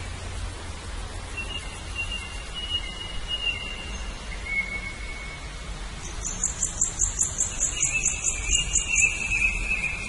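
Songbirds calling: thin, drawn-out whistles early on, then a rapid high trill of about a dozen notes starting about six seconds in and lasting about three seconds, over a steady low background noise.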